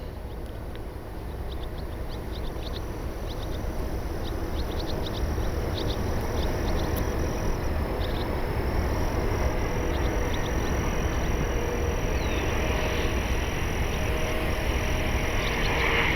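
Private jet on approach, its engine noise swelling over the first several seconds and then holding steady, with wind rumbling on the microphone. Short bird or insect chirps can be heard in the first half.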